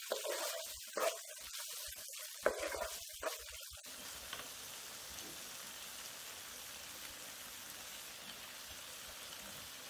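Onion-tomato masala sizzling quietly in a nonstick pan. For the first few seconds a wooden spatula stirs and scrapes it in uneven strokes, then a steady, even sizzle goes on.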